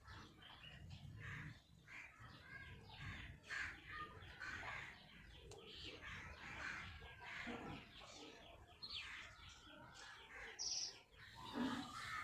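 Faint bird calls in the background, short scattered chirps and crow-like caws.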